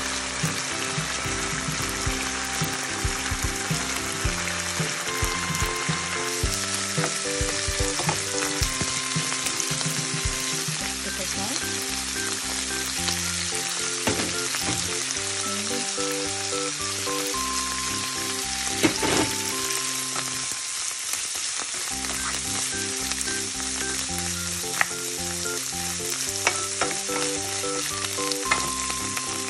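Sliced bamboo shoots, mushrooms and onion sizzling steadily in hot oil in a frying pan, with scattered clicks and scrapes of a spoon stirring them.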